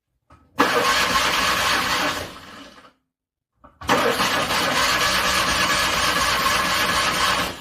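Car engine cranked by its starter in freezing cold, struggling to start: a short cranking attempt of about a second and a half, then a longer one of about three and a half seconds, each trailing off.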